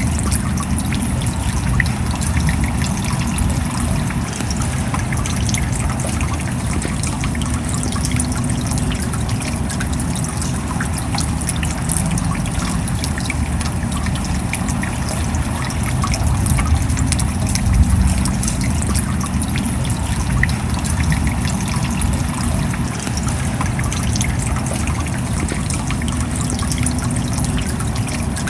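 Steady rain, with water trickling and many small drops dripping.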